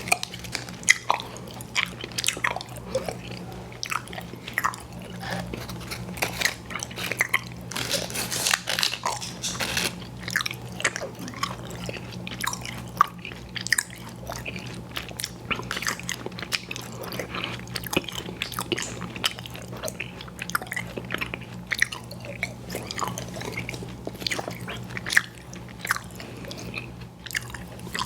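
Close-miked chewing of chewy fruit candy: wet smacking and sticky clicking bites that come thickest about a third of the way in, over a low steady hum.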